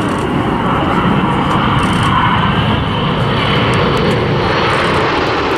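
Jet noise from a formation of BAE Hawk T1 jets flying a display pass: a loud, steady rushing sound that holds level throughout.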